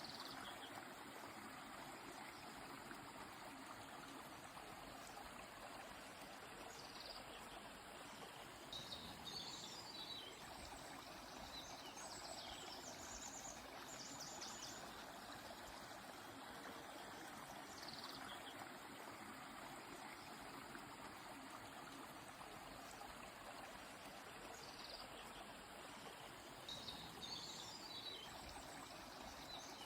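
Faint, steady rush of a flowing river. Birds sing short, high chirps and trills over it several times, most around the middle and near the end.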